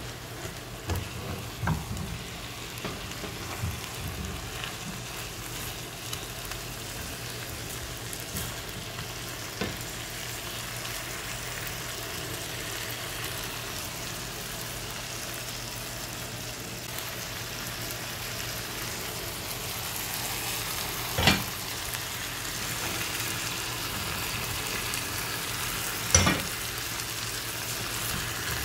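Chicken pieces and potatoes sizzling as they fry in a pan, stirred with a wooden spatula. There are small knocks in the first few seconds and two sharp knocks about 21 and 26 seconds in.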